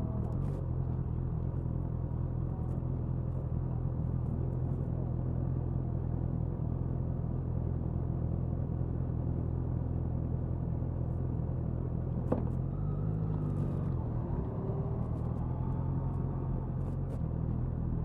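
Suzuki Hayabusa inline-four engine and exhaust running at a steady cruise, heard from near the tail of the bike. About twelve seconds in there is a sharp click, and the engine note shifts for a moment before settling again.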